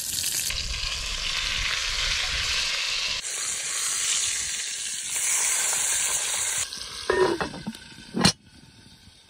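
Trout fillet sizzling steadily in melted butter in a cast-iron Dutch oven. Near the end there is a brief metallic scrape, then a single loud clank as the cast-iron lid is set on the pot.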